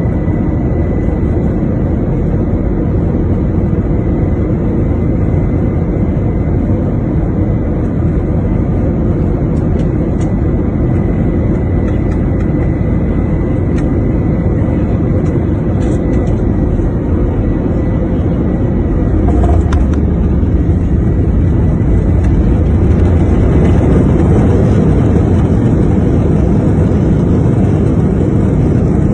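Jet airliner cabin noise during landing: a steady rush of engine and airflow noise with a faint high whine, growing louder and deeper about two-thirds of the way through.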